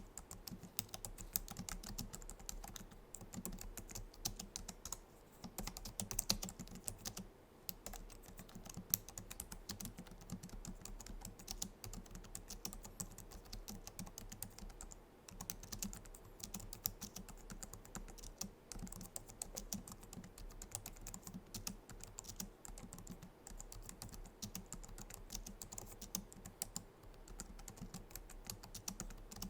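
Continuous fast typing on a Logitech MX Keys keyboard: a dense run of soft clicks from its low-profile scissor-switch keys, with brief pauses about a third and a half of the way in.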